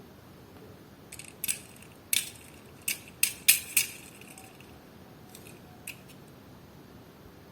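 Sharp snips and clicks of a toy car's plastic blister packaging being cut open, about six in quick succession, then two fainter ones.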